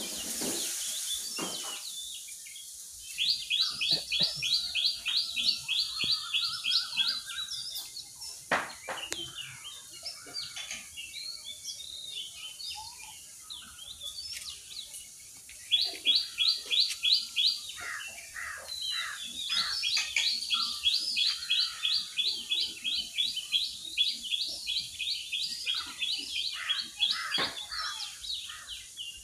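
Bird calling in long runs of fast, evenly repeated high chirps, about five a second, stopping and starting again several times, with other scattered bird calls in between.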